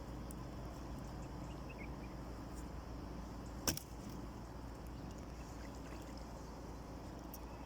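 Boat engine running steadily as a low rumble, with one sharp click or knock about three and a half seconds in.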